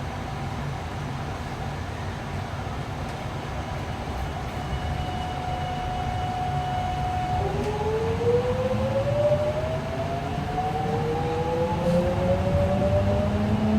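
JR West 207 series electric train running, with a low steady rumble of wheels on rail. About halfway through, a steady motor tone gives way to the VVVF inverter whine climbing in pitch as the train powers up, heard as two or more rising tones out of step with each other, because the inverters at the two ends of car KuMoHa 207-1037 run offset.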